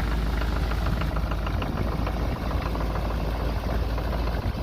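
1982 Oldsmobile 5.7-litre V8 diesel idling steadily shortly after a cold start, with a low rumble and the usual rapid diesel clatter.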